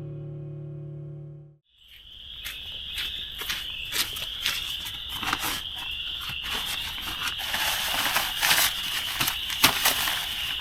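Acoustic guitar music ends about a second and a half in. Then a steady, high-pitched chorus of frogs calling fills the rest, with irregular crunches and clicks close by.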